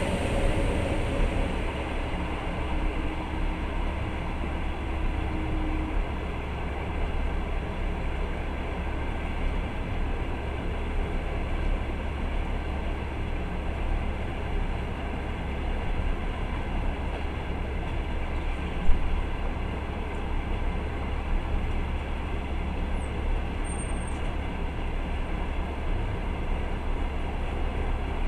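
Passenger train running along the track, heard from inside the carriage: a steady low rumble of wheels on rails, with one sharp knock about two-thirds of the way through.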